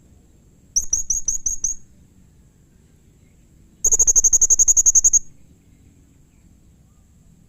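Blue-crowned hanging parrot (serindit) calling in shrill, very high notes: a short run of about seven, then a couple of seconds later a longer, faster trill of about sixteen.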